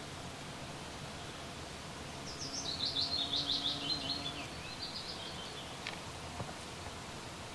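A songbird sings one phrase of rapid notes that falls in pitch and ends in a short flourish, about two seconds in, over a steady outdoor background hiss.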